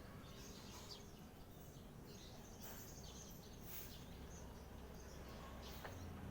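Faint bird chirps and short calls over a steady low outdoor rumble, with a few soft ticks scattered through.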